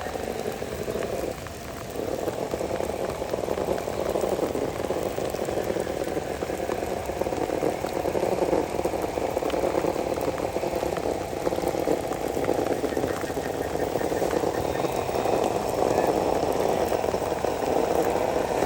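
Steady rain falling close by, a dense even hiss that dips briefly about a second and a half in.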